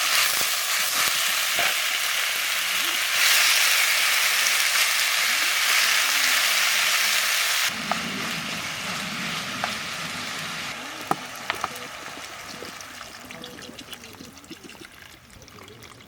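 Food sizzling in a frying pan over a campfire: a loud, dense sizzle that drops suddenly about halfway through, then fades quieter with a few sharp clicks.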